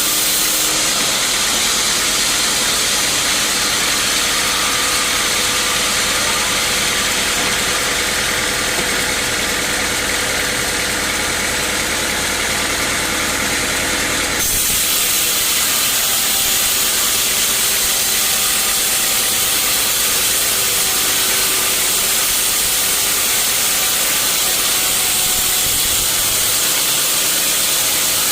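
Sawmill machinery running steadily: a loud, dense hiss with an underlying motor hum. The sound changes abruptly about halfway through.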